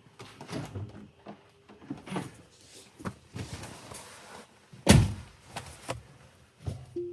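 Kimblade Carbon wiper blades sweeping a Tesla Model Y's windshield, creaking with each stroke across the glass, the loudest creak about five seconds in.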